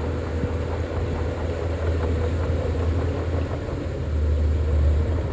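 Diesel engine of heavy earthmoving machinery running under load with a steady deep rumble, swelling a little about four seconds in.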